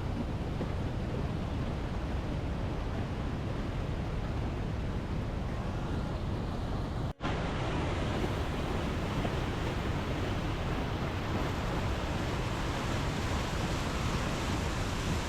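Steady rushing noise of fast-flowing water, with a momentary drop-out about seven seconds in.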